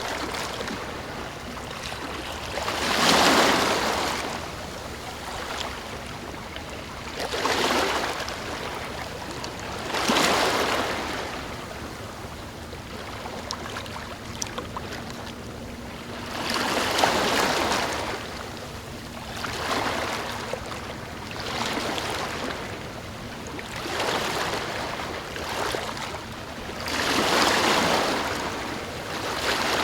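Ocean waves breaking and washing in: about eight swells of surf, each rising and fading over a second or two, with a steady hiss of water between them.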